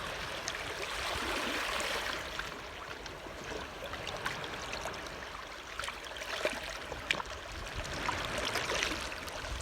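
Seawater lapping and trickling, with many small irregular splashes and drips.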